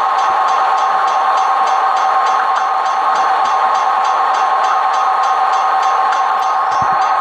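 Slow CSX train rolling past, with two steady high tones held unbroken over the rail noise and a faint rapid ticking.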